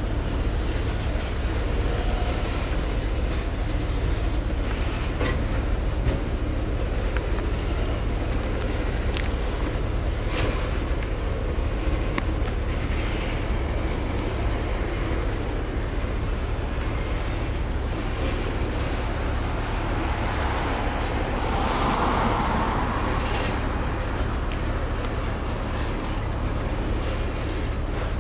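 Freight train of tank cars rolling past, with steady wheel-on-rail noise and occasional clicks from the wheels.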